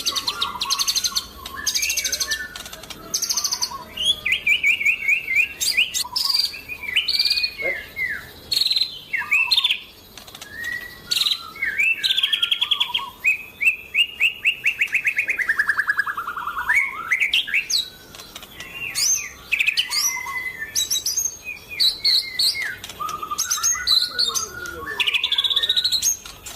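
White-rumped shama (murai batu) in full song: a long, varied run of whistles, chirps and fast trills with only brief pauses. About halfway through comes a long trill that falls steadily in pitch.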